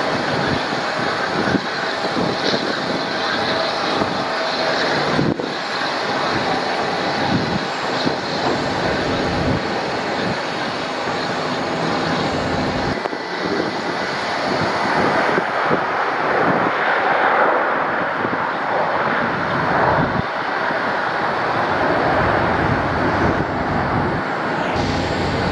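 Airliner engines running: a steady, loud rush of noise with faint steady whine tones.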